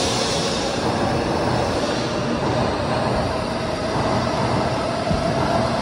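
N700A Shinkansen train moving along the platform, giving a steady rushing and rumbling noise of the passing cars, with a faint whine that rises slightly in pitch.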